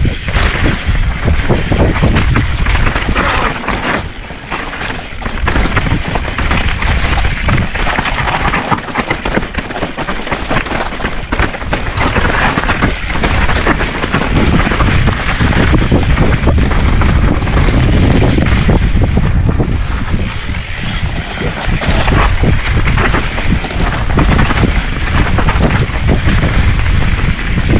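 Full-suspension mountain bike (Specialized Stumpjumper) riding fast down a rough, rocky trail: continuous rattling and clattering of the bike over rocks and roots, tyre noise on dirt, and heavy wind buffeting on the action camera's microphone.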